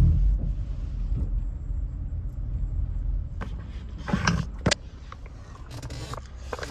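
Ford Transit Connect van driving, a low engine and road rumble heard from inside the cabin, which drops away about three seconds in; a few sharp clicks or knocks follow.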